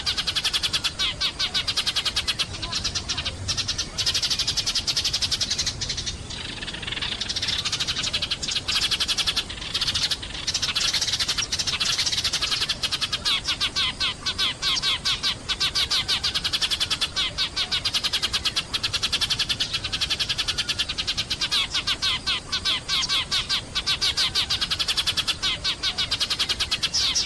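A flock of sparrows chirping continuously: a dense, fast chatter of short, high chirps, with a brief lull about six seconds in and again around ten seconds.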